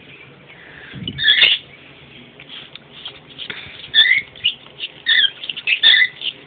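Pet birds calling with short chirps and squawks: one call about a second in, then a busy run of calls from the middle onward.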